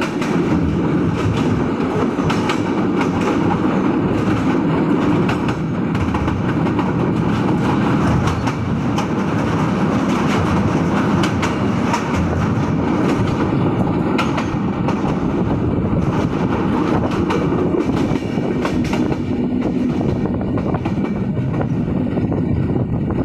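Silkcity Express passenger train running along the line: a steady rumble of the coaches with repeated clickety-clack of the wheels over the rail joints.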